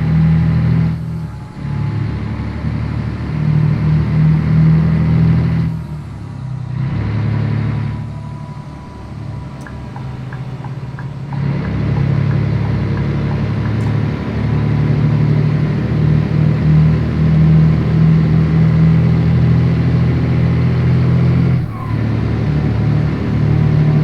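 Scania 113 truck's diesel engine running under load. Its deep, steady note dips briefly several times.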